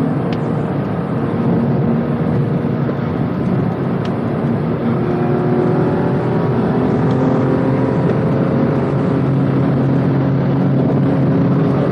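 BMW M2 Competition's twin-turbo inline-six heard from inside the cabin, running hard under load on track, its pitch climbing gradually from about the middle as the revs build.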